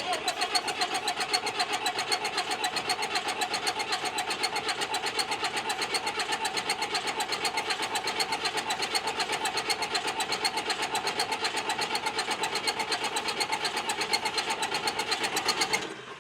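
Starter cranking a 12-valve Cummins diesel on a shot of ether, turning it over in a fast, even rhythm for about sixteen seconds without the engine catching. The cranking cuts off suddenly near the end.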